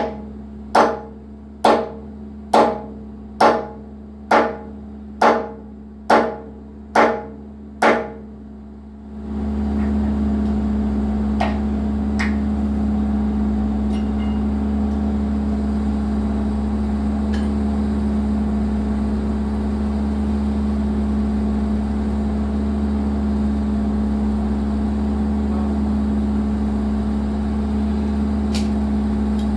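John Deere 120 excavator's diesel engine running. For the first nine seconds it runs quieter under about ten evenly spaced, ringing knocks a little under a second apart; then the engine comes up loud and steady, with a few faint clicks.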